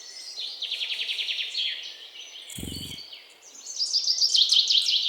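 Great tit calling in fast trilled bursts of high, rapidly repeated notes, louder near the end. A short low rumble sounds about halfway through.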